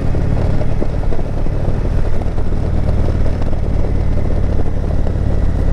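Indian Chieftain Dark Horse motorcycle's V-twin engine running steadily under way, with no change in pitch.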